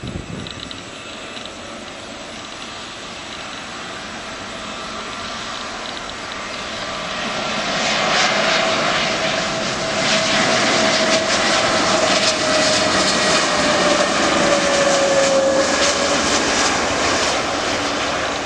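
Engines of a passenger airliner passing close by. The sound swells from about seven seconds in and is loudest in the second half, with a steady whine that slides slightly lower in pitch as the aircraft goes by.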